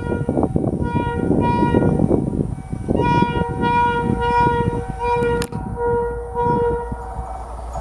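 Horn of a rail track maintenance car sounding in a series of short blasts, over the clatter and rumble of its wheels on the rails.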